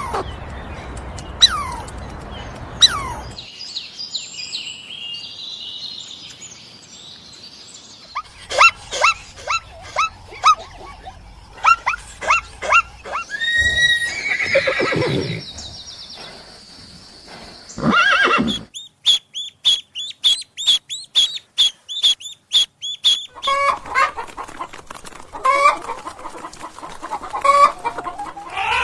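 Chickens clucking, a run of short calls with one longer falling call about halfway through.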